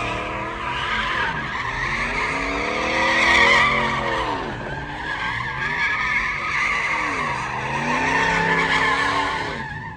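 A car spinning donuts: tires squealing steadily while the engine revs rise and fall in repeated swells about every two seconds. The squeal and engine stop near the end.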